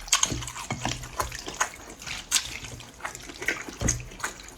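Liquid splashing and sloshing, with irregular small clicks and clatters.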